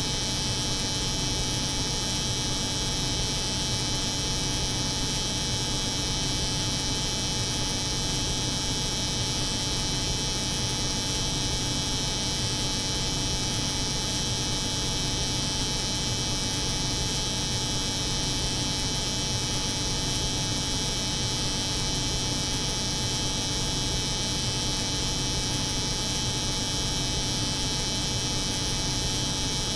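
Steady layered mix of an electric hair clipper buzzing and a cold room's refrigeration unit humming, with an even high hiss over a low hum and no change throughout.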